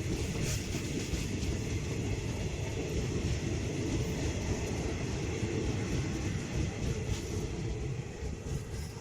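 Train running along the track with a steady rumble and wheel-on-rail noise, with a few faint knocks.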